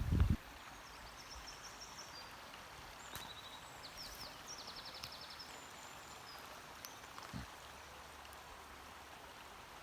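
Faint wild birdsong: several short high chirps and a quick trill over a steady outdoor hiss, with one soft low thud later on.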